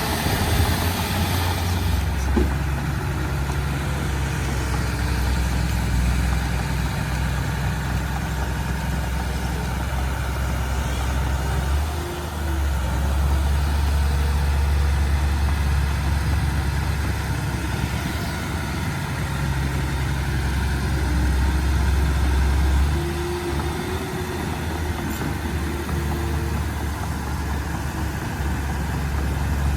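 Diesel engine of a Komatsu D31P crawler bulldozer running steadily while it pushes soil, louder for about ten seconds in the middle as it works harder.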